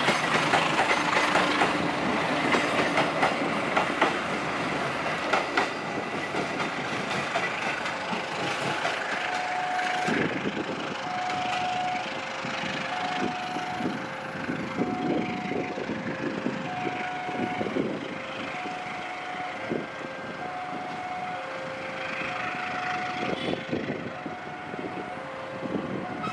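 A passing train's wheels clatter and click over the rail joints, loudest in the first ten seconds and then fading as the train moves away. From about nine seconds in, a two-tone electronic warning signal alternates steadily between a higher and a lower note.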